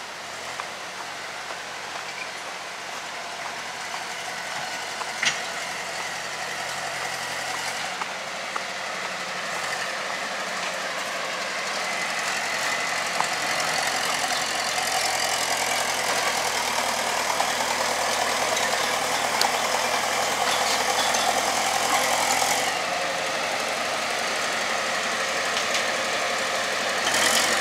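Road-construction machinery engine running steadily, growing louder through the first half, with a few sharp clanks now and then.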